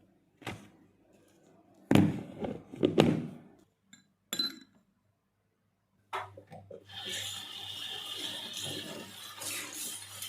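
A few knocks and clinks of household objects being handled, loudest about two to three seconds in, then a tap starts running water into a sink about six seconds in and keeps running.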